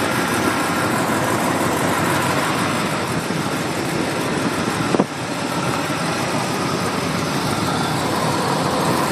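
1969 Oldsmobile 442's 400 V8 idling steadily under an open hood, with a single sharp click about five seconds in. The owner suspects a loose belt.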